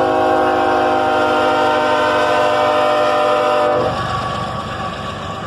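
Freight train's diesel locomotive horn sounding one long steady chord for about four seconds over the rumble of the train, then cutting off and leaving the train's rumble.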